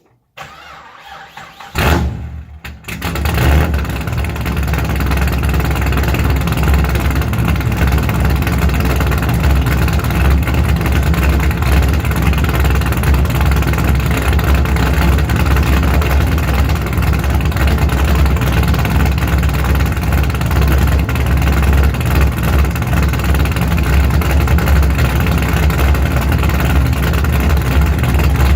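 Pontiac GTO V8 with a Brian Tooley Racing stage 4 camshaft and axle-dump exhaust starting up: the starter cranks for about a second and a half, the engine catches with a loud flare about two seconds in, then settles into a deep, choppy idle from the big cam.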